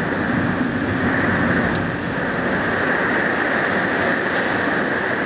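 Heavy tropical-storm rain pouring down in a steady, unbroken rush.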